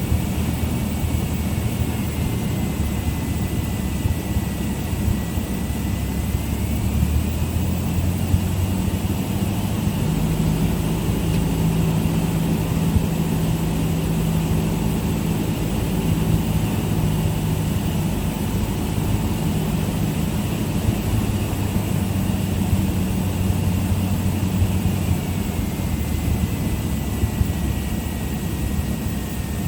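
Cessna 172's four-cylinder engine and propeller running steadily in the cockpit, the engine note changing about seven and again about ten seconds in.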